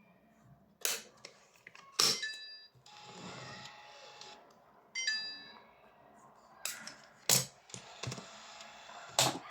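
Fibre-optic fusion splicer being handled and operated: sharp clicks of its covers and buttons, two short electronic beeps at about two and five seconds, and a brief whir of a small motor in between.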